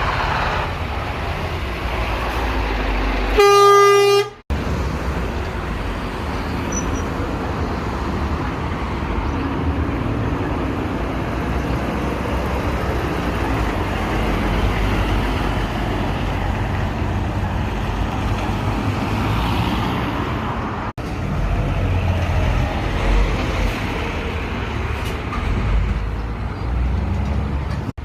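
A truck's horn blasts once for about a second, a few seconds in, one steady pitched note over the rumble of passing road traffic and engines.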